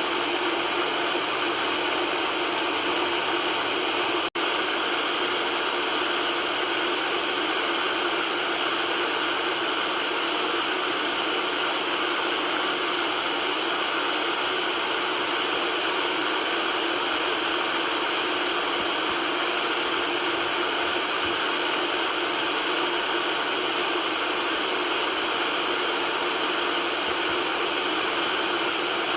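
Steady white-noise hiss, even and unbroken except for a split-second dip about four seconds in, with little bass beneath it.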